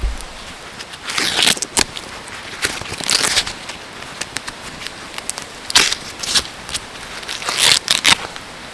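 Charcoal fire crackling with scattered sharp pops, broken by four louder rustling, crinkling bursts of about half a second each.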